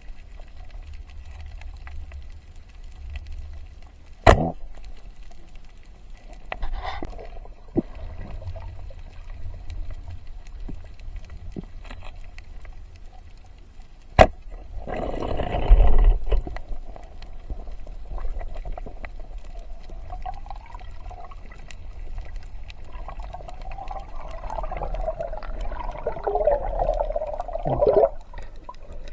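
Water sloshing and gurgling, with two sharp knocks about ten seconds apart and a louder rush of water just after the second.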